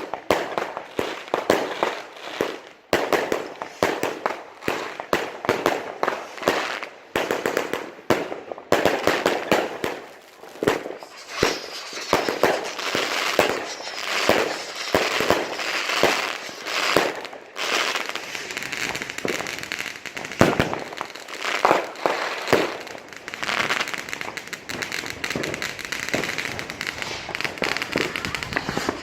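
Dense New Year's fireworks: firecrackers and rockets banging and crackling in quick succession, almost without a pause, with a fizzing crackle thickening in the second half.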